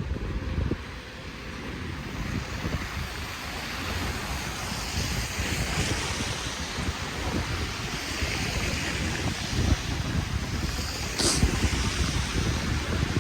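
Wind buffeting the microphone in gusts, over a steady hiss of outdoor street ambience in a snowstorm. A brief high-pitched sound comes near the end.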